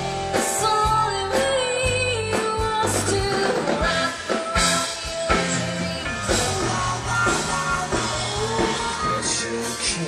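Band music with guitar, drum kit and singing.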